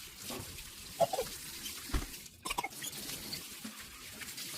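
Water running from a washbasin tap into the basin, a steady splashing flow, with a few short sharp sounds about one and two and a half seconds in.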